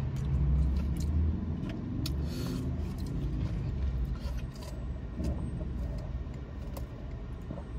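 Car engine idling inside the cabin, a steady low hum, with faint sipping through a straw and a few small clicks.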